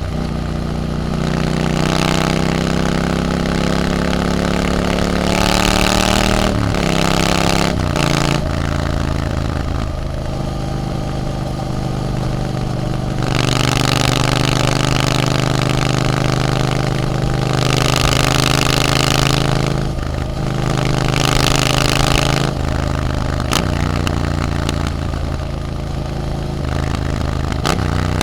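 Triumph Scrambler 900's parallel-twin engine running through an aftermarket Arrow exhaust while riding. The engine pitch climbs and then drops sharply a few times, about seven seconds in and again about twenty seconds in, as the throttle and gears change.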